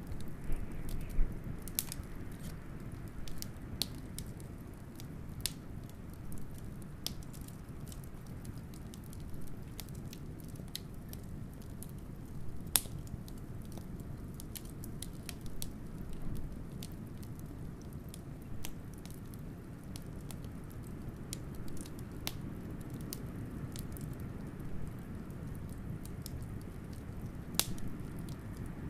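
Wood fire crackling with irregular sharp pops, over a steady low rumble of wind.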